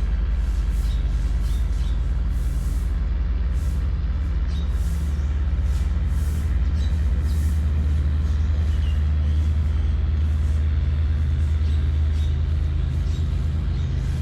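Diesel engine of a river tugboat running steadily under load as it tows a cargo barge: a loud, even, low drone, its pitch shifting slightly about 12 seconds in, with a hiss that comes and goes above it.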